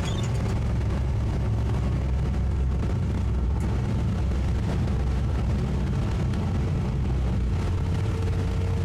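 Twin 200 hp Suzuki outboard motors on a towboat running steadily at mid throttle under a heavy tow load, a low, even rumble mixed with the rush of wind and water.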